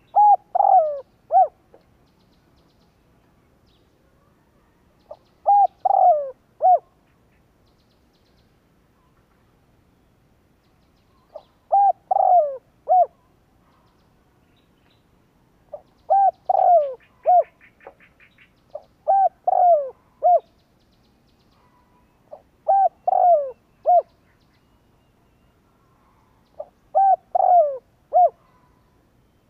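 Spotted dove cooing: seven short phrases of three or four low, falling coo notes, repeated every four to five seconds. It is the decoy call played to lure wild spotted doves.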